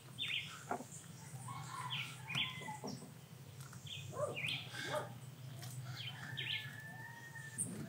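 Birds chirping repeatedly in short calls, with one longer held note near the end, over a low steady hum. There are a few faint clicks from a wrench tightening a car battery's positive terminal clamp.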